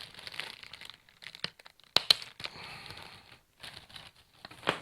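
Packaging crinkling and rustling as it is handled and unwrapped, with a couple of sharp clicks about two seconds in and a louder one near the end.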